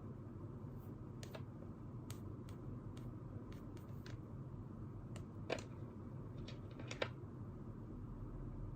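Scattered small clicks and taps from someone studying at a desk, over a steady low room hum; two sharper clicks come about five and a half and seven seconds in.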